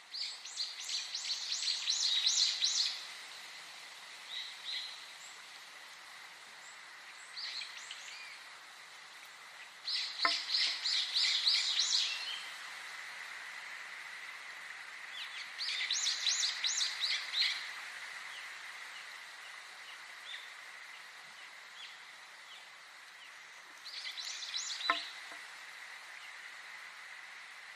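A songbird singing the same fast phrase of rapid high notes four times, each song about two to three seconds long, with a few softer calls between, over a steady background hiss.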